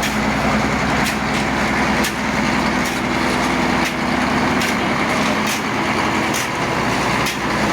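Engine running steadily, with scattered sharp clicks and knocks over it.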